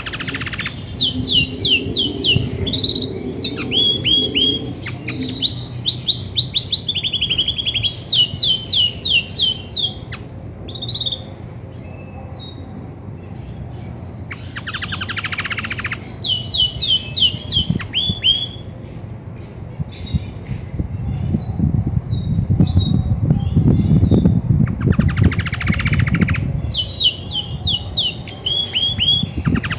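Female Belgian canary singing: phrases of quickly repeated, falling whistled notes and fast rolled trills, broken by short pauses, the kind of strong song a hen gives when ready to brood. A low rumble sits underneath, loudest in the second half.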